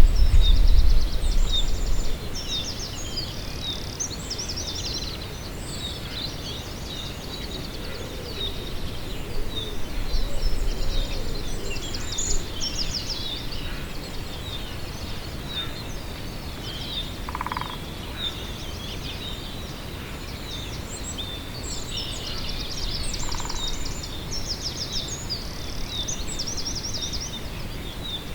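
Several small birds singing, with repeated high trills and chirps overlapping throughout, over a steady outdoor hiss. A low rumble, louder than the rest, fills the first two seconds, and two short lower call notes come in the second half.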